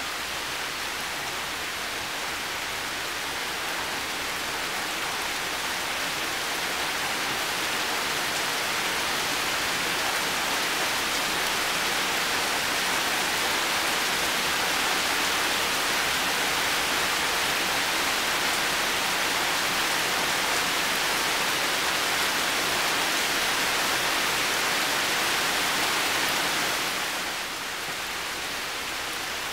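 Heavy rain falling steadily, a dense hiss of drops. It swells slowly louder over the first half and drops back a little near the end.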